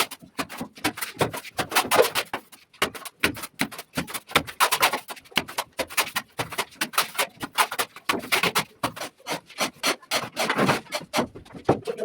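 A plastering tool scraping and rubbing over ceiling plaster in quick, repeated strokes, several a second.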